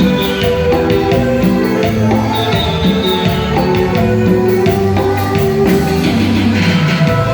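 Live band playing an instrumental passage with no singing: drums keeping a steady beat under guitar and keyboard lines.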